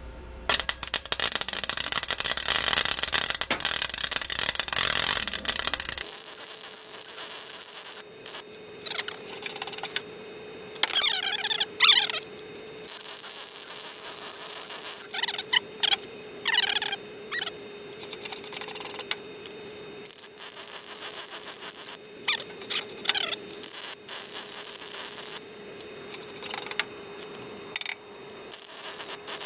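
Light arc welder burning a weld bead for about five seconds, then several short bursts of welding a few seconds apart over a steady hum, as a crack is welded up and a hole filled.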